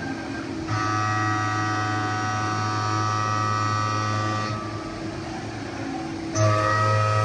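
Haas VF-2SS CNC mill cutting S355 steel: a steady, many-pitched whine from the cutter in the work. It starts about a second in, stops for a moment around four and a half seconds, then starts again near the end, over a constant low machine hum.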